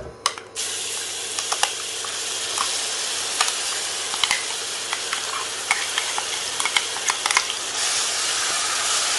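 Ground onion, ginger and garlic paste hitting hot oil in a stainless steel pan and sizzling steadily, starting about half a second in. A spoon clicks and scrapes against the metal mixer jar and pan as the paste is scraped out and stirred.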